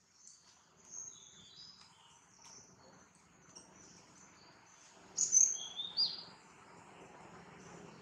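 Birds chirping in short high notes over a faint steady insect hum, with two louder, downward-sliding chirps about five and six seconds in.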